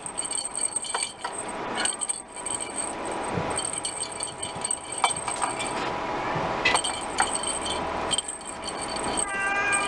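A small bell jingling on and off, with a few light clicks and taps. A kitten meows near the end.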